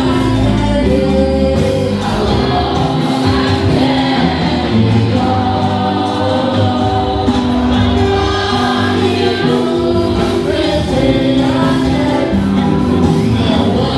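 Church choir singing gospel music, held notes moving in steps over a steady low accompaniment.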